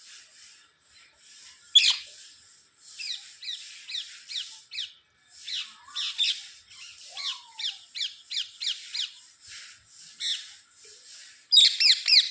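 Pet parrot chattering in a rapid run of short, high chirps and trills, with louder bursts about two seconds in and near the end.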